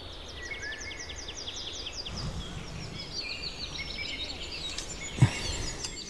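Songbirds singing: a rapid trill of quick falling notes in the first two seconds, then more scattered chirping notes. A single sharp knock sounds about five seconds in.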